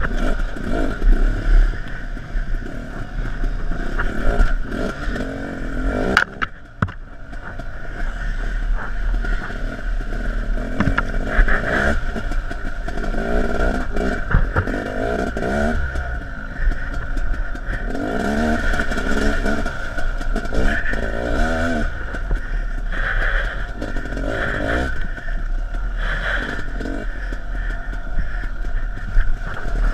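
Dirt bike engine being ridden off-road, its pitch rising and falling again and again as the throttle opens and closes, with a few sharp knocks and rattles.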